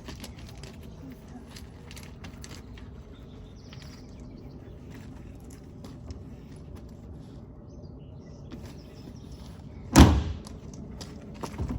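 Plastic garbage bin lid banging shut: one loud bang about ten seconds in, then a lighter knock just before the end. Before the bang there are only faint scattered clicks over a steady low background.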